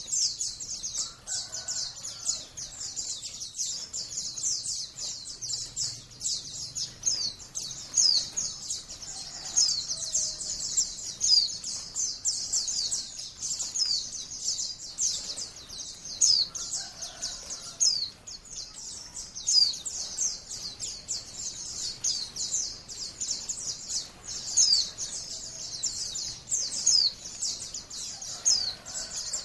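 White-eyes (pleci, Zosterops) singing nonstop in a dense, high-pitched chatter of rapid chirps and quick down-slurred notes that overlap one another.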